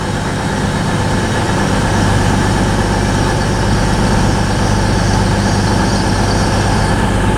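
Steady drone of a train at a station platform: an even engine-and-motor hum with a faint high whine that fades near the end.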